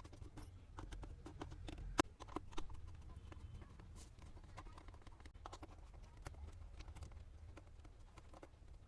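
Scattered light clicks and taps of small parts being handled, with a sharper click about two seconds in, over a low steady hum.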